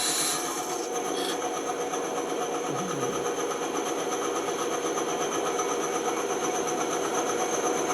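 A power saw running steadily in the woodshop, its motor giving an even, unbroken hum.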